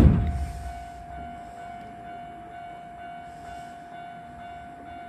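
Steady, quiet electrical hum with one held mid-pitched tone, from the cab of a stopped electric train. Other sound fades out in the first second.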